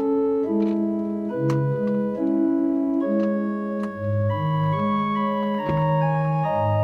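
Background music played on an organ-like keyboard: held chords and notes that change every fraction of a second over a moving bass line.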